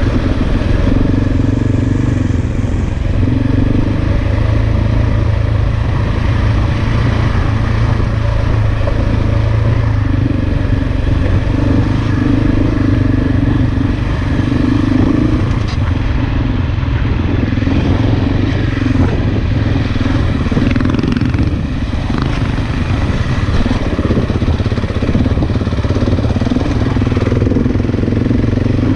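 Large 690 cc single-cylinder dual-sport motorcycle engine running under way, its note swelling and easing with the throttle, with scattered knocks and rattles over the middle stretch.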